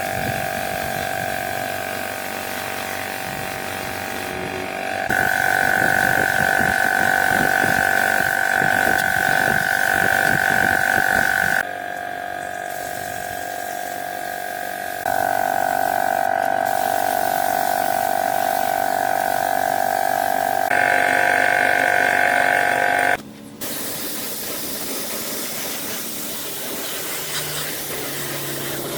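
A small electric power tool motor whining steadily at high speed. Its pitch and level jump abruptly several times.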